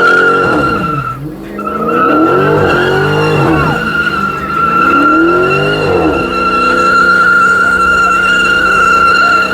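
Dodge Charger doing a burnout: the rear tyres give a steady, loud high-pitched squeal, broken briefly about a second in, while the engine revs up and down three times and then holds a steady high rev from about six seconds in.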